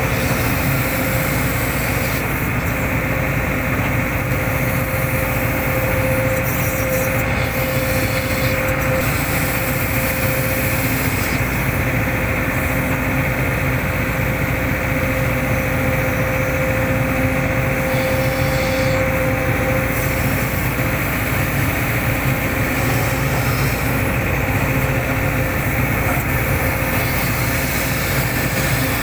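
Hitachi hydraulic excavator's diesel engine running steadily under work, with a steady whine riding over the engine.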